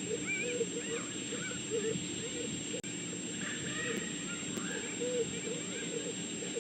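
Red wolf pups squeaking and whimpering, many short rising-and-falling calls overlapping a few times a second.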